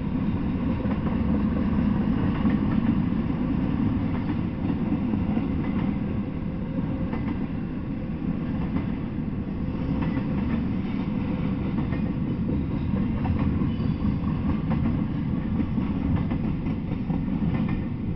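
Intermodal freight cars carrying highway trailers rolling past on the rails: a steady rumble of steel wheels with clickety-clack at the rail joints. The rumble begins to fade right at the end as the last car goes by.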